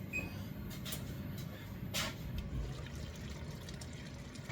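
Hotpot liquid simmering in a wok, a steady low bubbling with a few light knocks. A single short electronic beep from the kitchen timer sounds right at the start.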